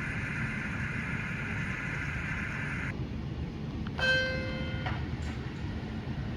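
HO-scale Rapido model BART train running on the layout with a low rumble underneath. A steady whine cuts off suddenly about three seconds in. About four seconds in comes a single pitched tone, the loudest sound, lasting just under a second.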